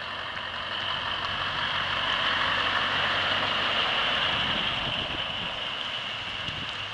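A heavy truck passing by, mostly a rushing noise that swells to a peak about three seconds in and fades again.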